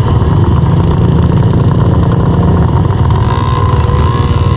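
Small dirt bike engine running at fairly steady revs.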